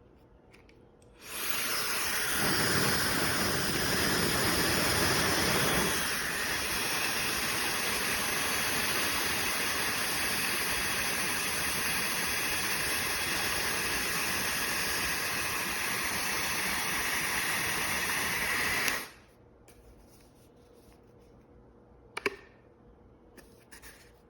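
Slopehill high-speed hair dryer switched on about a second in, running with a steady rush of air and a high motor whine, heavier and deeper for the first few seconds. It is switched off near the end and cuts out suddenly, followed by a single click.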